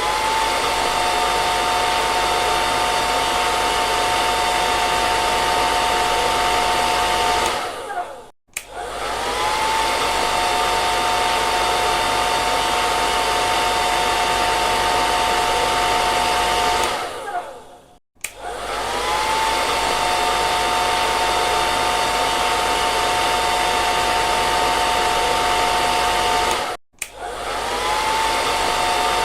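Hair dryer blowing steadily, a rushing airflow with a high motor whine. Three times, about every nine seconds, it dies away and cuts out briefly, then starts up again with a short rising whine.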